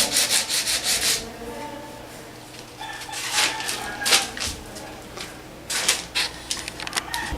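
Quick rhythmic sanding strokes on a super-glue and baking-soda repair to a plastic chair leg, stopping about a second in. Scattered clicks and knocks follow as the camera is handled and moved.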